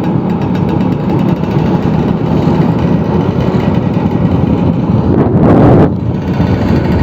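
Vespa scooter engine running steadily while riding, with road and wind noise. A brief louder rush of noise about five and a half seconds in.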